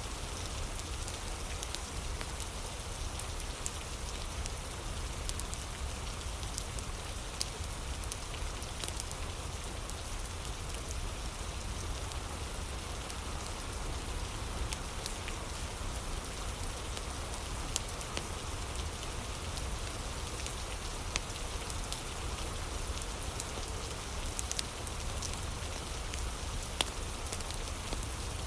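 Steady rain, an even hiss with a low rumble underneath, mixed with a fireplace: scattered sharp crackles and pops come at irregular moments throughout.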